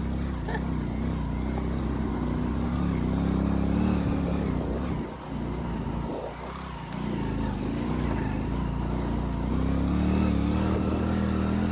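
Motorcycle engine running while riding, its pitch rising and falling with the throttle. It eases off about five seconds in, then picks up again.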